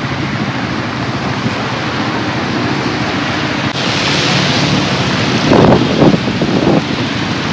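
Steady rushing hiss of heavy rain and wind on the phone's microphone, getting louder and rougher in the last couple of seconds.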